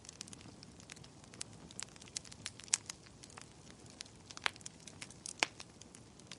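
Wood fire burning in a fireplace: irregular crackles and sharp pops over a soft steady hiss, with a louder pop near the middle and another near the end.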